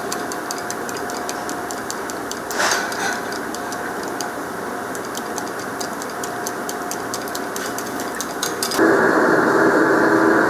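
Commercial kitchen cooking sounds: a steady roar with many small crackles and ticks throughout, a brief hiss about two and a half seconds in, and a louder rushing noise that sets in near the end.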